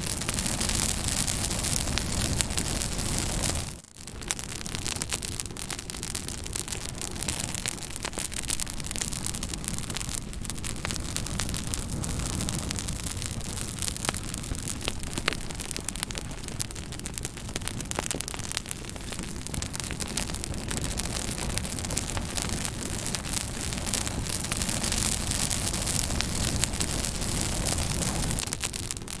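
Fire crackling: many sharp pops and snaps over a steady hiss. The sound cuts out briefly about four seconds in, then carries on.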